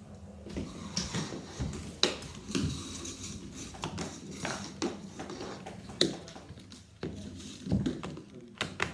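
Irregular knocks and clicks of objects being handled, with two sharper knocks about two and six seconds in, over a faint low hum.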